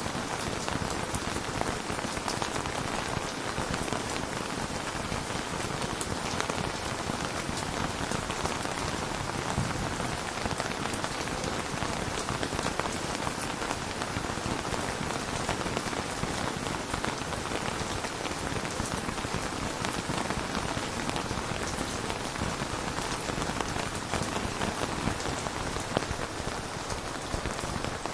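Steady rain falling, a dense even hiss full of fine drop ticks.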